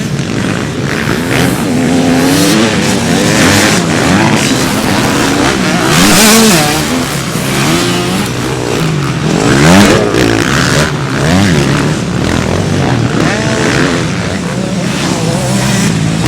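Several motocross bikes' engines revving, their overlapping pitches rising and falling as the throttles open and close. The sound swells around six and ten seconds in.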